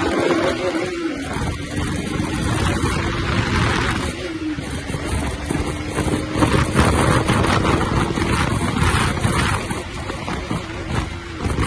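A motorcycle engine running hard at a steady high speed, its pitch dipping briefly about four seconds in and again near the end, under heavy wind rushing over the microphone that turns gusty partway through.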